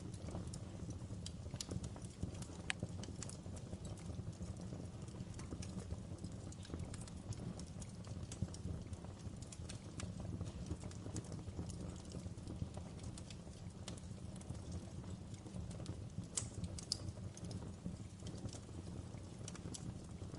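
Fireplace fire crackling, with irregular sharp pops over a low, steady rumble.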